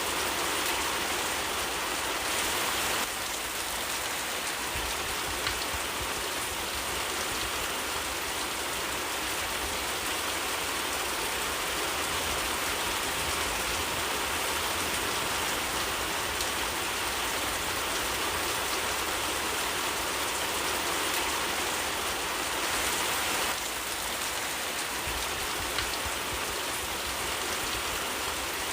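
Steady, dense rainfall in a forest: an even hiss of rain pattering on leaves and the ground, with fine scattered drop ticks.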